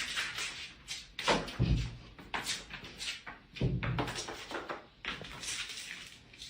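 A series of irregular thumps and knocks, like something banging against a door or furniture, with scuffing noise between them.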